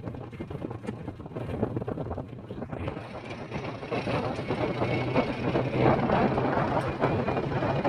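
Vehicle driving on a winding road: a steady low engine hum under road and wind noise, which grows louder about halfway through.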